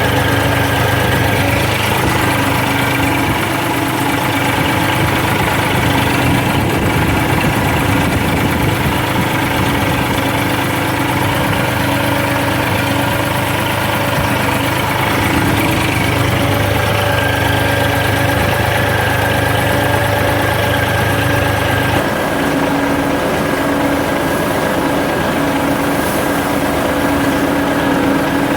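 Diesel engine running steadily. Its deep low rumble drops away abruptly about two-thirds of the way through, while the higher engine tones carry on.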